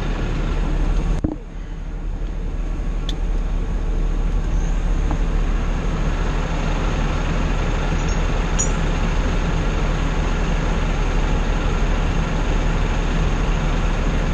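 An engine idling steadily, with a brief sudden dip about a second in.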